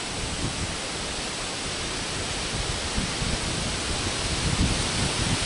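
Heavy thunderstorm rain falling as a steady hiss, with a low rumble of thunder building in the second half and growing louder.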